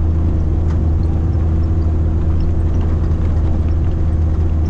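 A vehicle's engine running steadily, with a continuous low drone.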